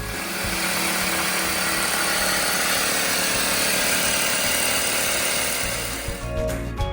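A power tool runs steadily for about six seconds with an even whirring hiss, then stops near the end, with background music underneath.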